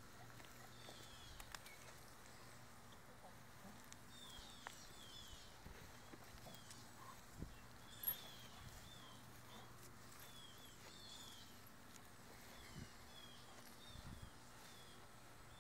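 Near silence: a bird chirps faintly in repeated short series of falling notes over a steady low hum, with a few soft knocks, the sharpest about eight seconds in.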